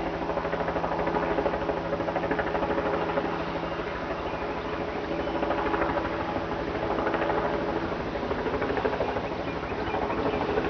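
Helicopter rotor beating in rapid, steady pulses, the sound swelling and easing a little as it circles.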